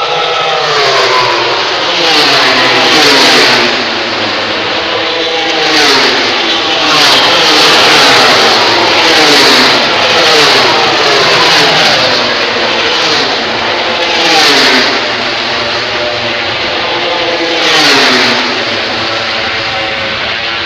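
MotoGP racing motorcycles passing close by at high speed, one after another. Each screaming engine note drops in pitch as the bike goes past, about ten passes, with a short lull before the last one.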